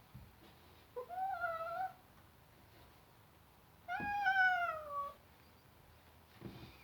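Domestic cat meowing twice: a short call about a second in, then a longer one about four seconds in that falls in pitch as it ends.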